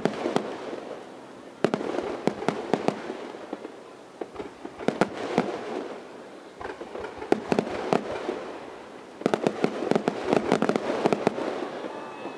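Aerial fireworks bursting: volleys of sharp bangs and crackling in quick succession, coming in several bursts, with the densest run near the end.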